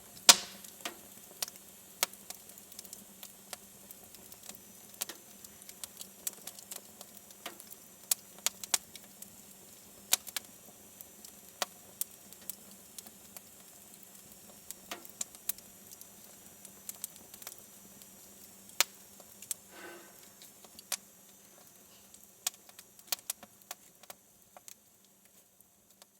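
Wood fire burning in a fireplace: sharp, irregular crackles and pops over a soft steady hiss, with a brief hissing flare about twenty seconds in.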